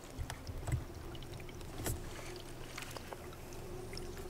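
Quiet canoe paddling on calm water: soft paddle strokes, with a few light clicks and knocks.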